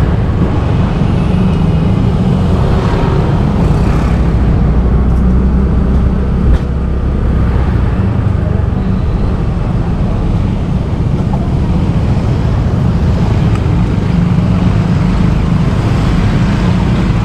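Motorbike ride through city traffic, heard from the moving bike: a steady low engine and road rumble, with one short sharp knock about six and a half seconds in.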